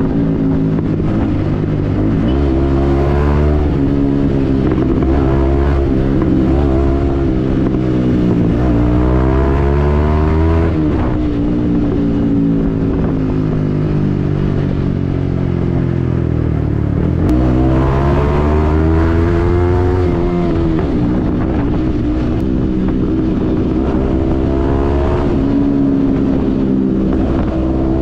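Yamaha MT-15's single-cylinder engine through a Yoshimura aftermarket exhaust, riding at speed. The engine pitch climbs under throttle and drops off several times, with two clear pulls about a third of the way in and again past the middle.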